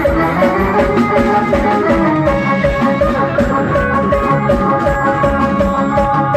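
Live band music, an instrumental passage between sung lines: a steady drum-kit beat under a bright, repeating melody.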